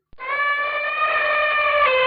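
Camel calling: one long, steady-pitched moan that begins a moment in.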